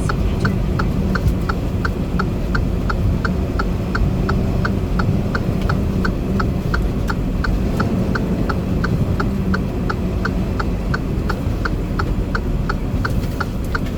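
A steady low engine rumble with rapid, evenly spaced electronic ticks or beeps over it, about three a second.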